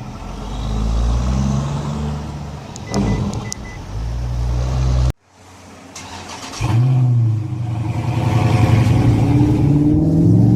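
Kia Sorento's 3.3-litre V6 engine revving, with a few short high beeps about three seconds in. The sound cuts off abruptly about halfway; then the engine starts with a quick flare and climbs steadily in revs.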